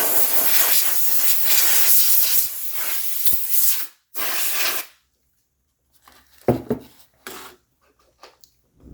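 Can of compressed air blowing dust off laptop internals: a long hissing blast of about four seconds, then a short second burst, followed by a few faint clicks of parts being handled.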